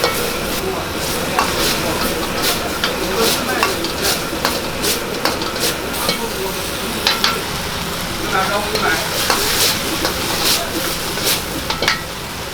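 Food sizzling in hot cooking oil, with frequent sharp clinks of a metal utensil striking and scraping the pan as it is stirred.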